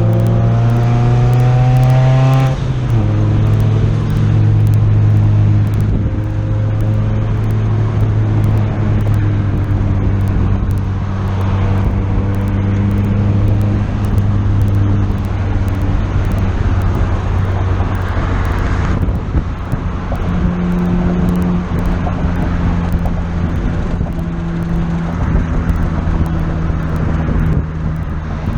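Turbocharged 2.2-litre four-cylinder Honda F22B engine of a 1994 Honda Accord pulling the car along. The revs climb, then drop at a gear change about two and a half seconds in. After that it runs at fairly steady revs, with a few more changes in pitch as the car is driven.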